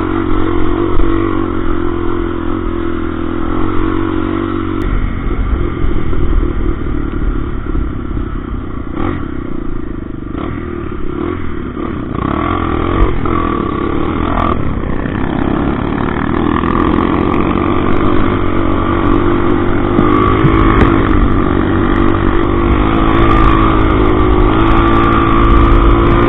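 Motorcycle engine running while being ridden on a dirt road, its note rising and falling with the throttle. It gets louder through the second half.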